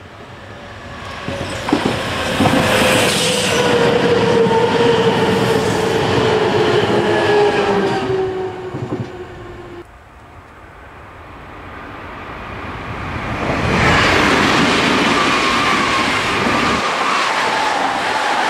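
Nankai Main Line electric commuter trains passing at speed, their wheels rumbling and clattering on the rails while a steady tone from the train slowly falls in pitch. One train passes, the sound cuts off abruptly about ten seconds in, and then a second train approaches and passes close by.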